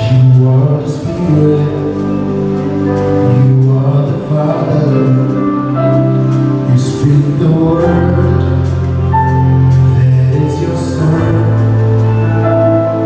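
Gospel worship music: sustained keyboard chords over a steady bass line, with a voice singing.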